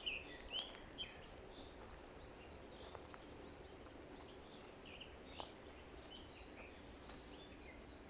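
Songbirds chirping faintly over a soft, even forest hiss, many short calls overlapping in the first second or so, then only scattered calls.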